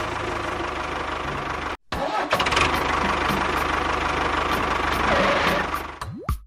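An engine running steadily, cut off briefly just under two seconds in, then dying away near the end.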